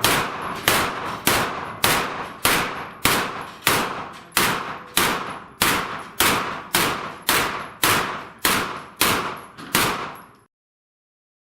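A rapid string of about seventeen handgun shots at steel plate targets, fired at an even pace of roughly one every 0.6 seconds, each echoing out before the next. The sound cuts off abruptly about ten seconds in.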